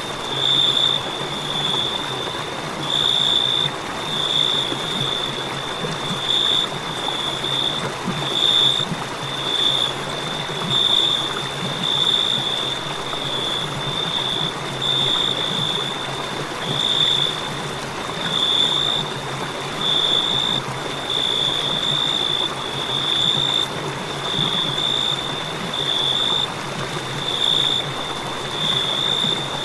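Crickets trilling continuously at a high pitch, swelling and fading every second or two, over a steady background hiss.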